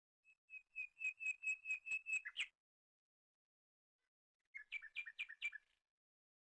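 A bird calling: a run of about ten quick, evenly repeated whistled notes, a pause of about two seconds, then a shorter run of about five.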